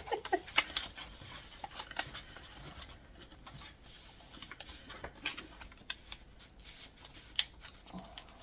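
Hands handling stationery and its packaging: light rustling with scattered sharp clicks and taps, one louder tap near the end.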